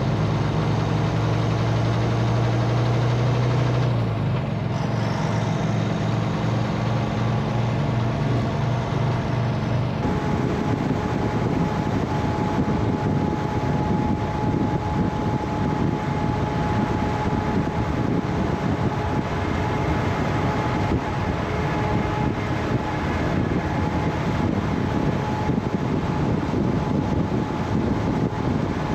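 Semi truck's diesel engine running with an even low drone, then a rougher, noisier rumble with a steady high tone from about a third of the way in.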